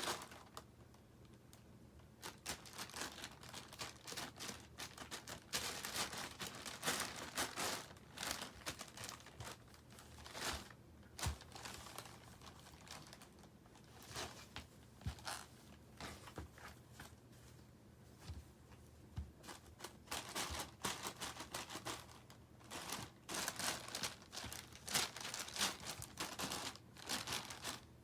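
A cat playing with crinkly plastic packaging: irregular bursts of crinkling and rustling, with short quieter pauses between them.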